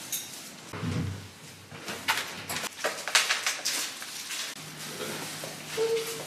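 Newly installed washing machine starting its first run: scattered clicks and knocks, then a steady low hum sets in about two-thirds of the way through.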